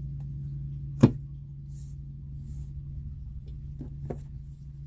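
A tarot reader handling cards or a guidebook on a table: one sharp tap about a second in, soft rustles, then two lighter taps near the end, over a steady low hum.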